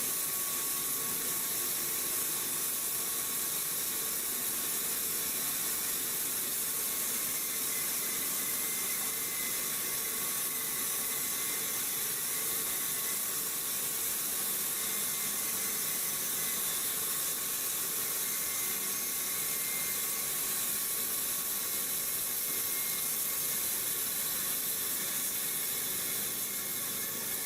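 Metal lathe running as it machines a conical shell casing: a steady hiss with faint, steady whining tones.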